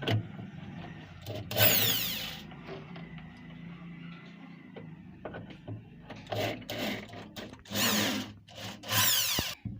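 Cordless electric screwdriver or drill run in four short bursts, its motor whine shifting in pitch, as screws are backed out to take the horn tweeter driver out of a speaker cabinet. Light handling noises come between the bursts.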